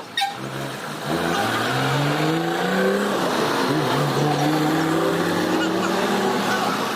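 Motorcycle engine pulling away and accelerating, its pitch climbing, dropping briefly at a gear change about three and a half seconds in, then rising again.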